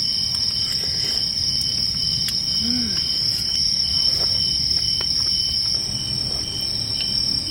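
Night insects trilling: a steady high trill with a second, pulsing trill beneath it.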